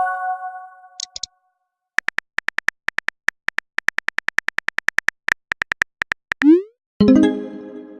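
Phone text-messaging sound effects: a chime ringing out, a short double blip, then a run of quick keyboard typing clicks, about five a second, a short rising send swoosh, and a second, fuller message alert chime that rings out near the end.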